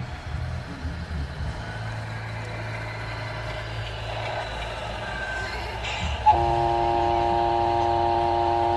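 An RC model tractor truck runs with a low steady hum. About six seconds in, a loud steady horn-like tone starts suddenly and holds.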